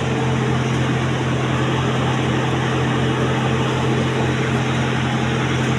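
Tractor-driven sewer suction machine running steadily: the tractor engine and its vacuum pump keep up an even hum with a fast, regular pulse underneath, at working load while pulling sludge.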